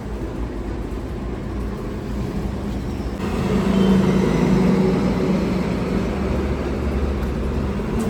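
A motor running steadily with a low hum; about three seconds in a louder, higher drone joins it and holds.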